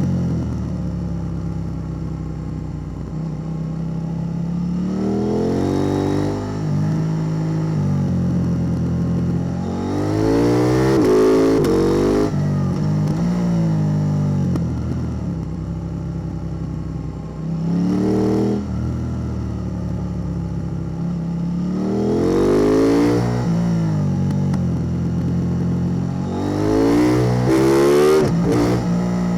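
KTM 890 Duke R parallel-twin engine breathing through a Spark Dyno double slip-on exhaust, revving up hard about five times, its pitch climbing and dropping back each time, with a steady lower engine note between the revs.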